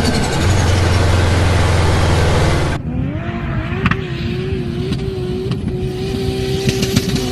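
Turbocharged car engine running hard under load with a loud, steady note. About three seconds in it cuts off suddenly, and an engine is heard holding steady revs with a slightly wavering tone and a few sharp ticks.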